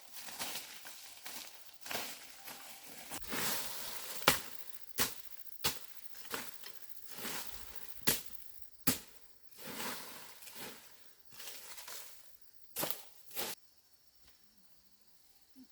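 Rustling, crunching handling noise broken by a series of sharp snaps or knocks, which stops fairly abruptly near the end.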